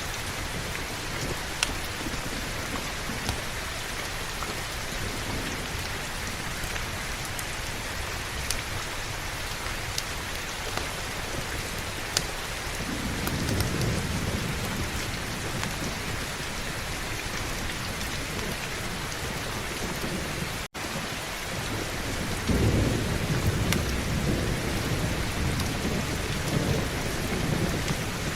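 Heavy rain falling steadily, with low thunder rumbling twice: once around the middle and again, louder, in the last third. The sound cuts out for an instant between the two rumbles.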